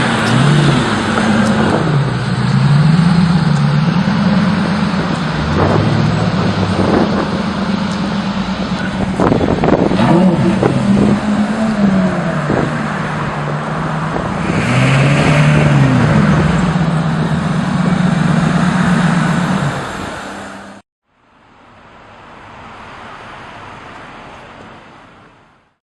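Lamborghini engine with a mufflerless straight-pipe exhaust, repeatedly blipped and revved with the pitch rising and falling back between revs, and a few sharp cracks along the way. It cuts off suddenly about 21 seconds in, leaving a quieter steady hiss for a few seconds.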